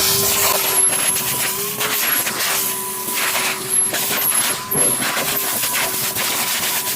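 Numatic Henry-type cylinder vacuum cleaner running, a steady motor whine over rushing air, the whine dipping briefly several times as it works, with scattered clicks and rattles.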